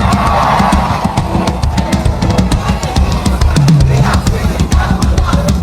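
Live church band playing an upbeat Afro-gospel groove: a busy drum kit with kick, snare and cymbals over a steady bass line.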